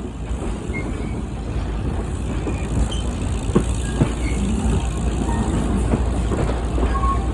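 A small tourist-railroad train running along, heard from on board: a steady low rumble and rolling noise, with two sharp clicks about halfway through.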